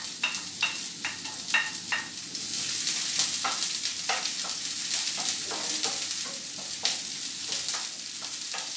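Chopped onion and garlic sizzling in hot oil in a non-stick frying pan, stirred with a wooden spatula that scrapes and taps against the pan. The sizzle grows louder a couple of seconds in.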